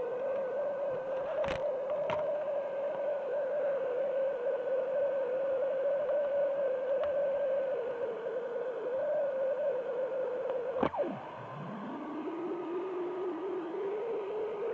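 A single sustained, wavering tone held at one mid pitch, with a few faint clicks; about eleven seconds in it swoops sharply down and then glides slowly back up to near its first pitch.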